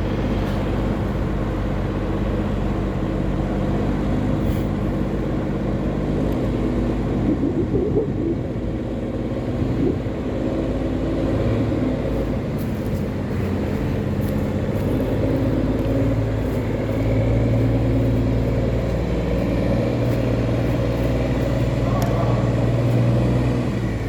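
Tugboat's diesel engine running steadily under way while towing a loaded barge, a low droning hum that grows a little louder about two-thirds of the way through.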